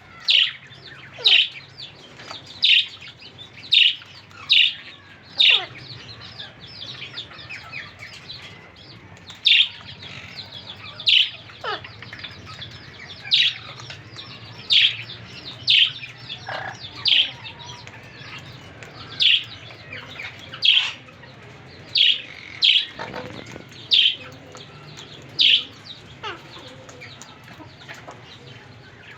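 Parrots calling: loud sharp calls repeated every second or two, over a constant chatter of softer chirps, with a short lull around six to nine seconds in.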